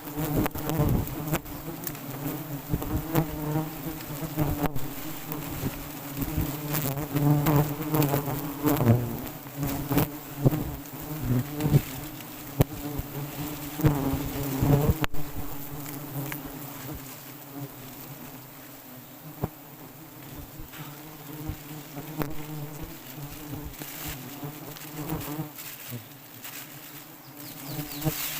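Swarm of wild honeybees buzzing around a large nest. The dense hum wavers in pitch and is louder in the first half, with scattered knocks and rustles.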